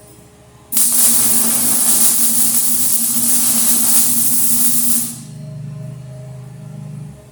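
Electric arc welder running on steel channel for about four seconds: a steady, loud hiss with a low buzz under it, stopping abruptly about five seconds in. A lower hum carries on after the arc stops and cuts off just before the end.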